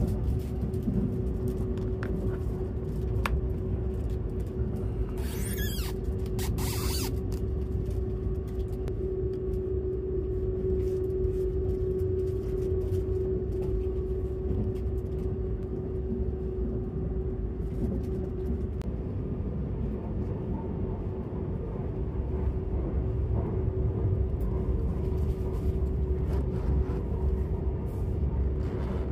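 Cabin sound of the Seibu 001 series Laview electric limited express train running: a steady low rumble with a constant hum. Two short bursts of hiss come about five to seven seconds in.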